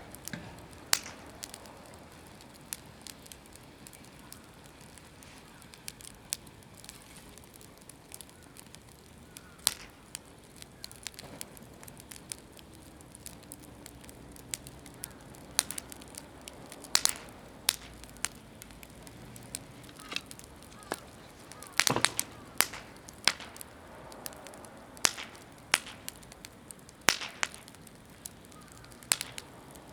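Wood fire crackling, with sharp irregular pops that come more often and louder in the second half, over a soft steady hiss. The wood is mostly green and damp.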